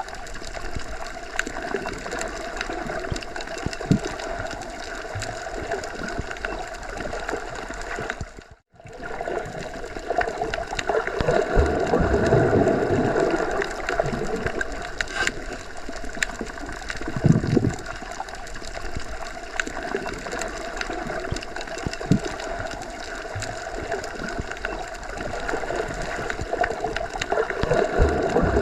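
Underwater ambience as heard while submerged: a steady muffled rush of water with low gurgles and occasional dull thumps. It cuts out briefly about nine seconds in.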